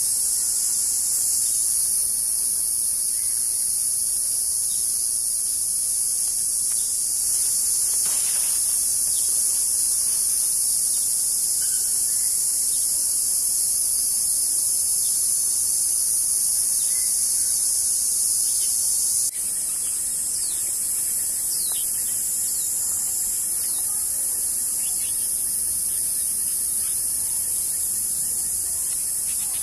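Dense, steady insect chorus: a high, hissing buzz that runs without a break. About two-thirds of the way through it changes abruptly and turns slightly quieter.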